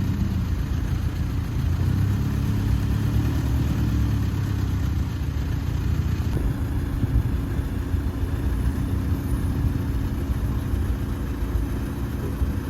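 Car engine running steadily just after being push-started, because its failed starter motor only clicks.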